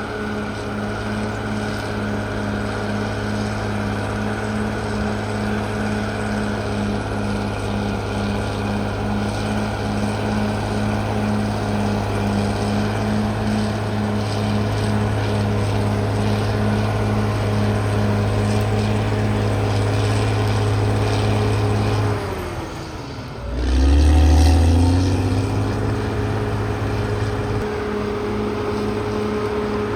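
CAT D6R XL bulldozer's diesel engine running steadily. About three-quarters of the way through, its note sags and drops in pitch, then revs back up, briefly louder, before settling to a steady run again.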